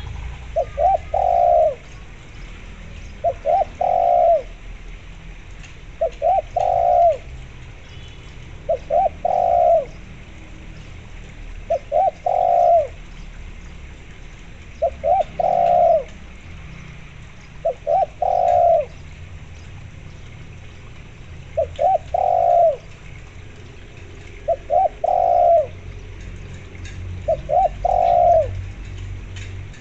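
Spotted dove cooing: ten repeated phrases, each two or three quick notes running into a longer drawn-out coo, about one every three seconds.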